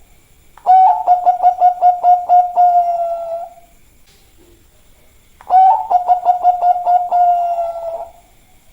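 Zebra dove (perkutut, Bangkok type) cooing: two song phrases about five seconds apart, each a quick run of staccato coos on one pitch that trails into a held note, about three seconds per phrase.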